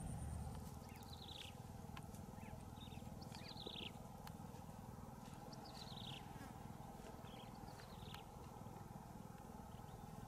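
Faint bird calls: short groups of quick falling notes, repeated about every two seconds, over a steady low rumble.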